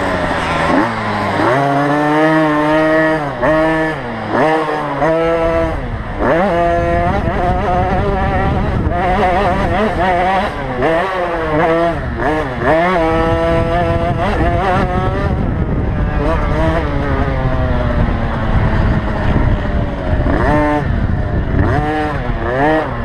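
Small 50cc two-stroke motocross bike engines racing round the track, revved hard and backed off again and again as they shift and brake, the pitch rising and dropping every second or so. Midway through one engine's pitch slides slowly down for several seconds before climbing again.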